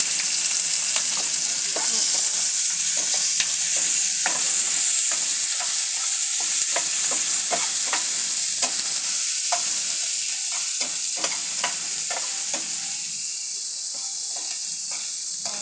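Sliced onions and green coriander sizzling loudly in hot oil in a frying pan: a steady hiss with frequent scraping and tapping clicks from a steel spatula stirring them. The sizzle slowly eases toward the end.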